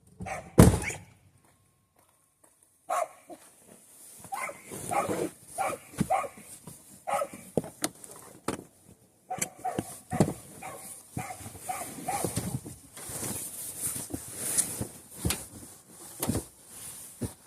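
Dog barking in a string of short barks, after a single loud thump about half a second in.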